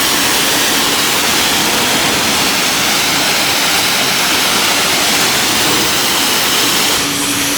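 Self-serve car wash high-pressure wand spraying soap: a loud, steady hiss of the water jet. About seven seconds in, a steady low hum joins it.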